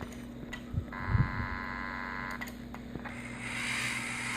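Steady electrical hum from a powered Lionel O-gauge subway train set, with a low thump about a second in and a hiss building near the end.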